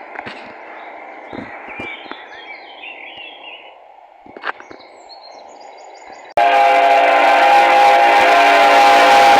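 Birds chirping faintly over quiet outdoor ambience, then about six seconds in a freight locomotive's horn starts suddenly and sounds loud and steady as a held multi-tone chord.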